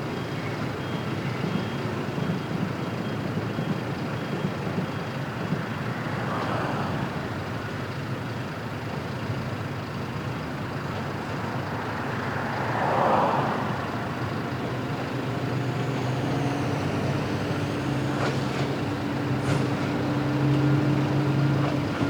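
Trackside rumble of passing road traffic, with one vehicle swelling past about two-thirds of the way in. In the last several seconds the steady hum of an approaching electric freight train builds.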